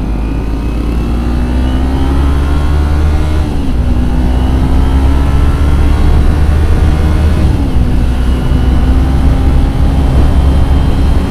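Kawasaki Ninja 250FI's parallel-twin engine pulling under acceleration. Its tone climbs slowly and drops back twice, about four seconds apart, as the rider shifts up. Heavy wind rumble on the microphone runs underneath.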